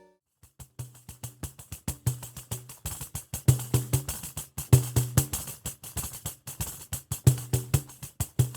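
Samba percussion playing a quick, steady rhythm of tambourine jingles and short drum strokes, starting about half a second in after a moment of silence.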